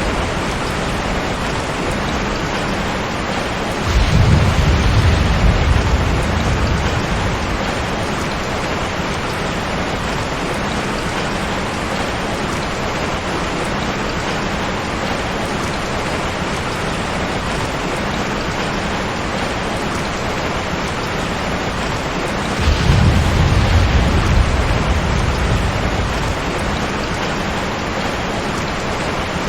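Steady, heavy rainfall with two low rolls of thunder, one about four seconds in and another past the twenty-second mark, each starting suddenly and dying away over a few seconds.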